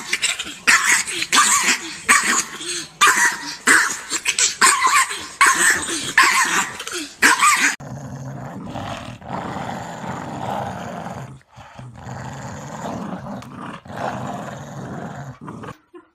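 A dog barking and growling in loud, sharp, repeated bursts, about two a second, for the first eight seconds; after that a quieter, steadier noisy sound continues.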